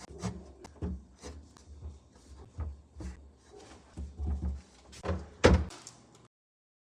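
A string of light knocks and clunks from containers and fridge parts being handled while a fridge is cleared out, with the loudest clunk about five and a half seconds in. The sound cuts off abruptly just after six seconds.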